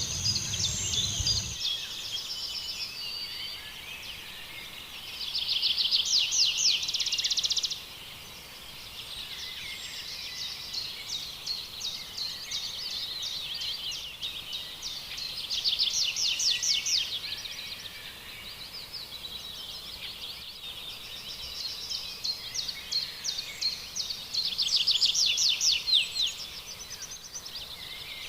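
Several songbirds singing and chirping together. One sings loud, rapid trills of fast-repeated high notes three times, each lasting a second or two.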